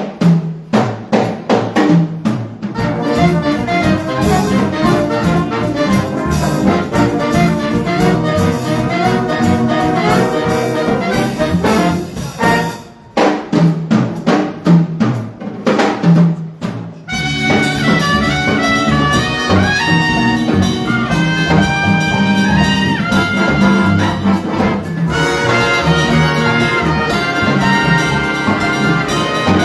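High school jazz big band playing live, trumpets and trombones over the rhythm section. The horns drop out twice for short drum-led passages, once at the start and again for a few seconds about halfway through, before the full band comes back in.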